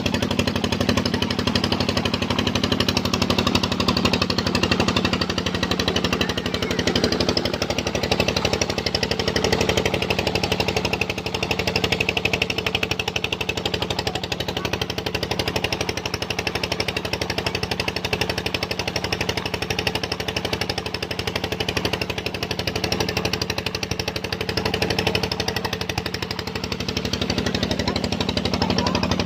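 Engine running a tube well's pump, keeping up a steady, fast, even chugging.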